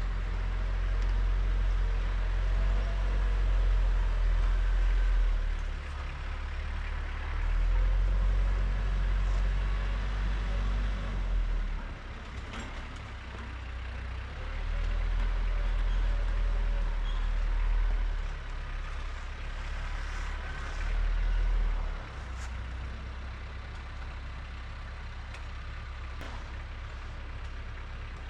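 TYM tractor's diesel engine running while clearing snow, its low rumble swelling and easing about four times as it works.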